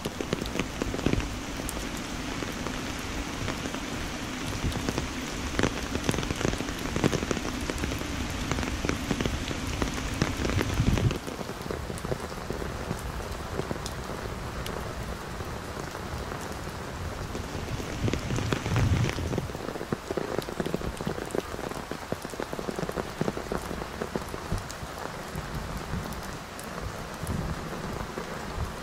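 Heavy rain falling and pattering, with many separate drop ticks. It drops noticeably in loudness about eleven seconds in and swells briefly again near the end.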